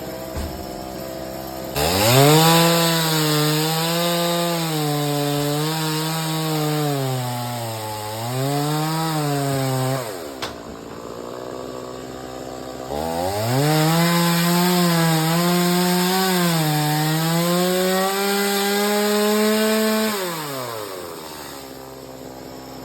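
Two-stroke chainsaw making two cuts into wood, each about eight seconds long. The engine is revved up, and its speed dips and recovers as the chain bites. It falls back to idle between the cuts and after them.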